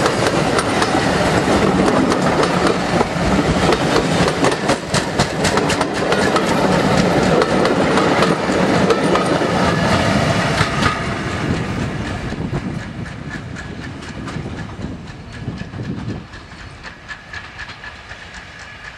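Steam-hauled passenger train passing close by, its wheels clicking over the rail joints as the tender and carriages go past. About eleven seconds in, the clatter begins to fade as the train moves away.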